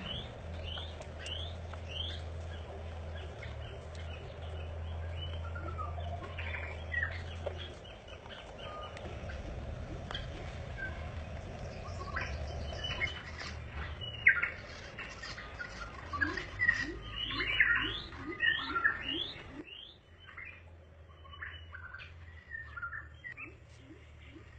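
Birds chirping: many short, quick chirps and sweeping notes, densest a little past the middle, over a low hum.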